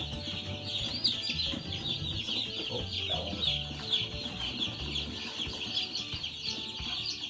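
A crowd of day-old Cornish Cross broiler chicks peeping constantly, many high cheeps overlapping into one dense chorus.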